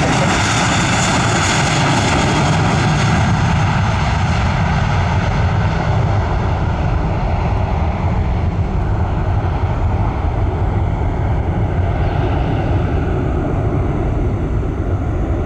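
Jet airliner passing close, its engine noise loud and continuous, the high hiss fading after about five seconds as it moves away.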